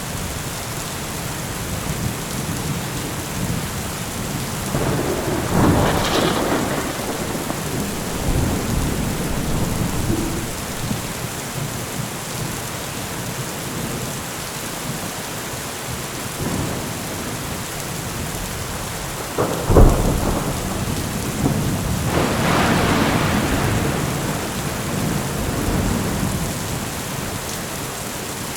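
Steady heavy rain with thunder: a rolling rumble swells about a fifth of the way in, then a sharp thunderclap about two-thirds of the way through is followed by a longer rumble.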